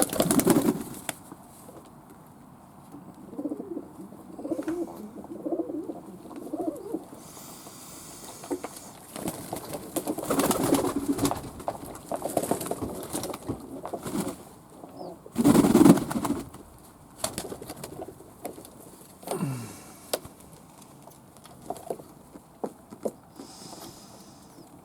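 Fantail pigeons cooing in low, warbling coos, broken by a few louder noisy bursts about a second long.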